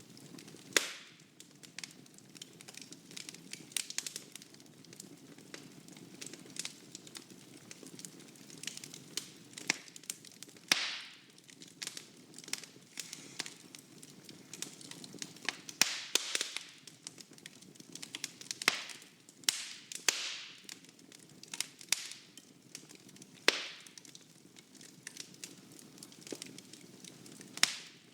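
Wood fire burning in a fireplace: a steady low rush of flames with irregular sharp pops and crackles, a few of the louder pops trailing off in short hisses.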